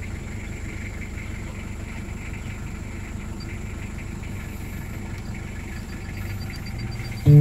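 Steady low rumble of a car idling, heard inside the cabin.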